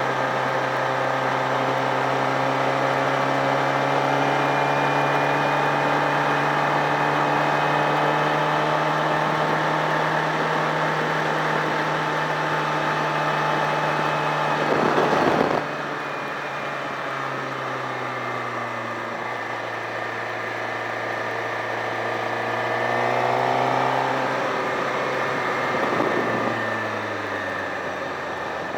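A sportbike's engine running at a steady pitch with road noise. About halfway through a brief loud rush of noise passes, then the engine runs quieter, its pitch dropping, rising briefly, and falling again near the end.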